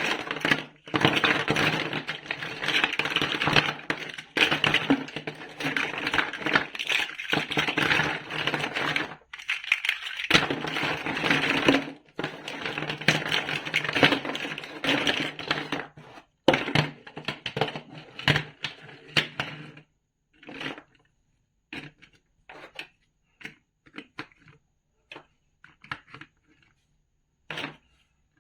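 Plastic building bricks clattering and rattling as they are handled, dense and continuous for most of the time. Near the end it thins out to scattered single clicks of pieces.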